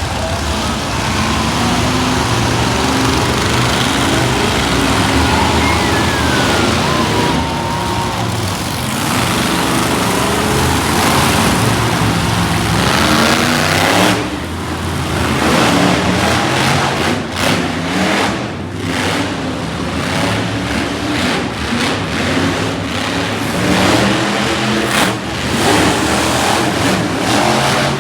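Monster truck engines running loud in an indoor arena, a dense wash of engine noise that from about halfway through surges up and down as the throttle is blipped and revved.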